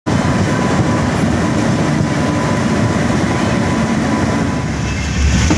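A train running on the tracks, heard close up: a steady rumble and rattle of wheels on rail, with a faint steady whine.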